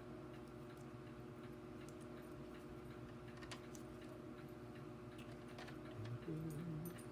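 Faint, scattered clicks and taps from handling the opened vacuum cleaner's switch and wiring, over a steady low hum. A brief low wavering tone comes about six seconds in.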